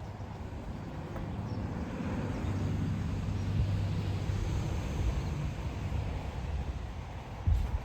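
A car passing by, its low rumble swelling to a peak about halfway through and fading again, with a sharp low thump near the end.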